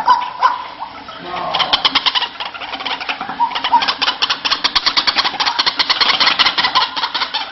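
White-breasted waterhen calling: a few short notes, then from about a second and a half in a long, rapid run of harsh, evenly repeated notes.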